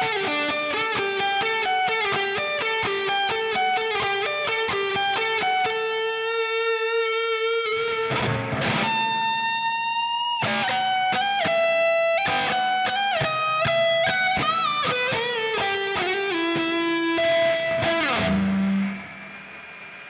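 Epiphone Les Paul electric guitar playing single-note lead lines: quick runs of notes, long held notes that bend up in pitch and waver, then more runs. The last note stops about a second before the end, leaving a faint ring.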